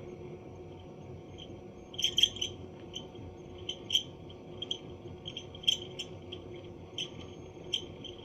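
Bosch Gaz 6000 18C gas boiler's combustion fan running with a steady hum, joined about two seconds in by irregular high squeaks, a metal-on-metal rubbing like a failing bearing. The owner traced the squeak to the fan impeller slipping on the motor shaft inside its scroll housing.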